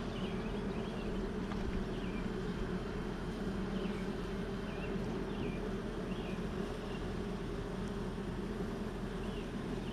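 Steady hum of a crowd of honeybees buzzing around an open, very crowded hive, with short high chirps now and then.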